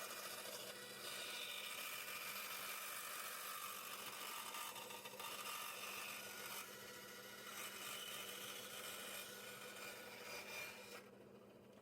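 Power saw running and cutting wood for splines: a steady whir over a constant hum, dropping off near the end.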